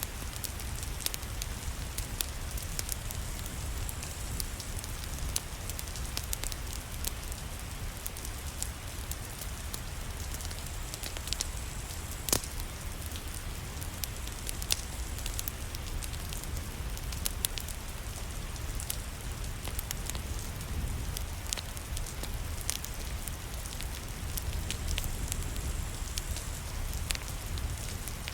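Steady rain mixed with a crackling fireplace: an even hiss with a low rumble under it, broken by scattered sharp pops, one louder about twelve seconds in.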